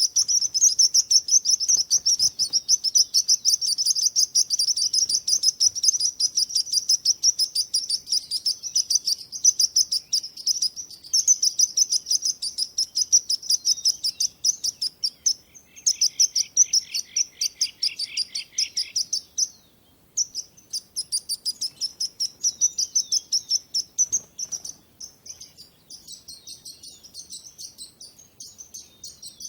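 Songbirds chirping in a fast, continuous run of high chirps, several a second. A second, lower series of chirps joins in for a few seconds about halfway through. The chirping breaks off briefly about two-thirds of the way through.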